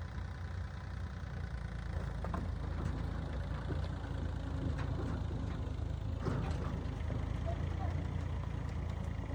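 An engine running steadily at idle, a low even drone with a fine rapid pulse, with a few light clicks and knocks over it.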